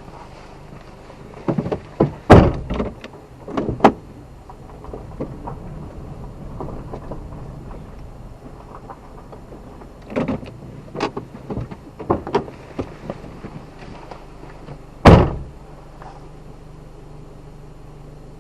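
A series of sharp knocks and bangs: a cluster a couple of seconds in, another around ten to thirteen seconds, then one loud thump about fifteen seconds in, over a low steady hum.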